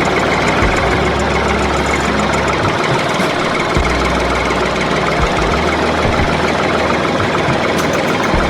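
An engine running steadily, with a deep low rumble that cuts in and out several times.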